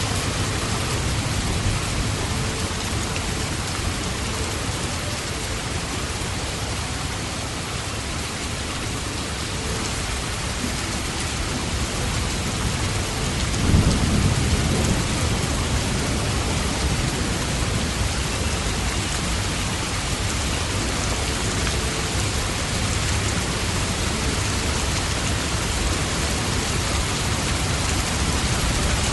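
Steady rain falling, an even hiss throughout, with one low rumble of thunder that swells suddenly about halfway and dies away over a couple of seconds.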